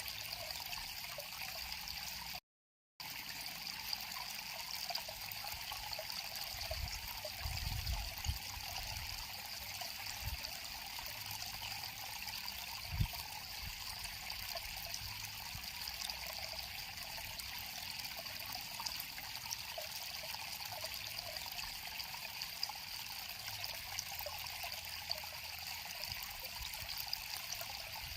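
River water flowing with a steady trickling, babbling rush. The sound drops out completely for about half a second near the start, and a few soft low thumps come a third and halfway through.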